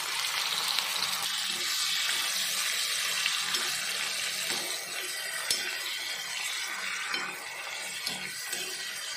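Chopped onion and tomato sizzling in hot ghee with cumin seeds in a kadai: a steady frying hiss that eases a little about halfway. A steel spoon stirs and scrapes the pan, with a few light clinks.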